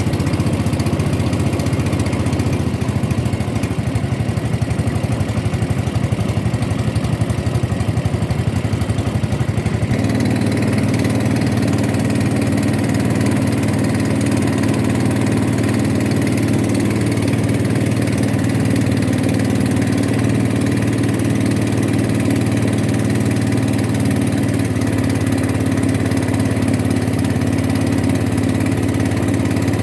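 Boat engine running steadily under way, its sound changing abruptly about ten seconds in and then holding steady.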